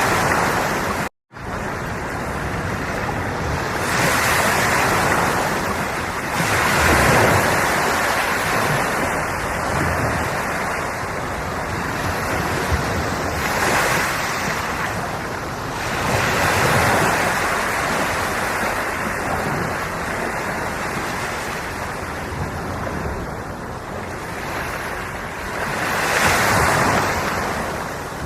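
Sea waves breaking and washing in, the rush of water swelling and falling every few seconds as each wave arrives. The sound cuts out briefly about a second in.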